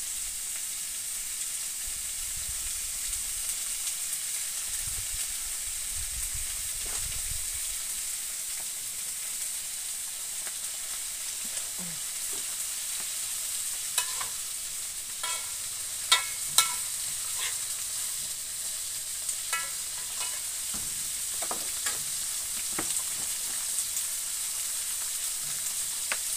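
Tomato, chilli and onion frying in oil in a metal wok, a steady sizzle. In the middle a metal spatula stirs the pan, striking the wok with a few sharp, ringing clinks.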